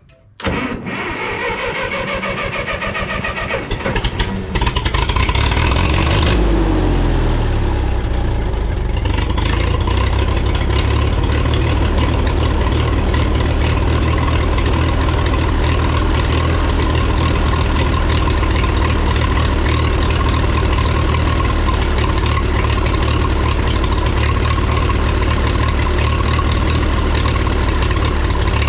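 A 1954 Minneapolis-Moline UBU tractor's four-cylinder engine is cranked by the starter, catches about four seconds in, picks up speed and then runs steadily. It starts now that the part of the points that was touching the distributor floor has been cleared.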